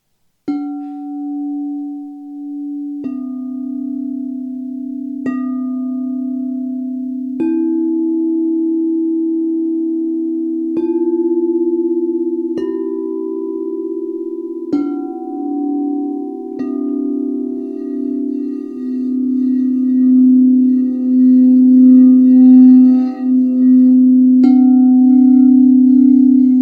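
Several singing bowls at different pitches struck one after another, about nine strikes, each ringing on and overlapping the others. In the second half the ringing swells and wavers rather than fading.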